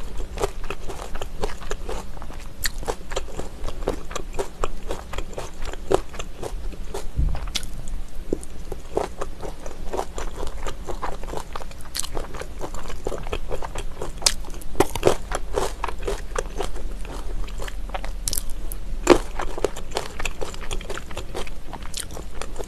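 Close-miked chewing of thick-cut raw trout slices dressed in chili sauce: a steady run of small, quick mouth clicks.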